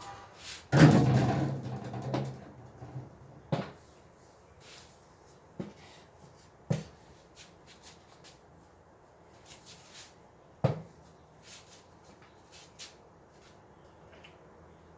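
Knocks and bumps from handling baby-crib parts during assembly. There is one loud clattering bang about a second in with a short low ring, then single knocks every couple of seconds and a few light ticks.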